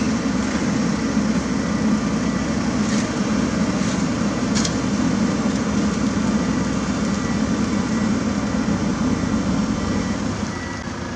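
Heavy diesel paving machinery running steadily, with two short sharp clicks about three and four and a half seconds in; it gets a little quieter near the end.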